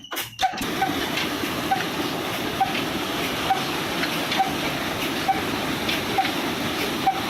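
Old 35 HP Ruston Hornsby diesel engine running steadily, a sharp regular beat about once a second over a constant rushing noise.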